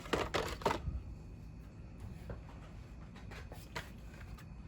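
Carded Hot Wheels packaging, a cardboard backing card with a plastic blister, handled in the hands: a burst of rustling and crinkling in the first second, then a few faint taps and crinkles.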